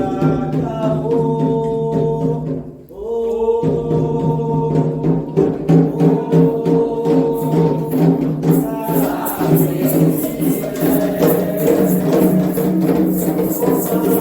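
Candomblé ritual song: a group of voices singing a chant together over a steady percussion beat. A rattling shaker joins about nine seconds in.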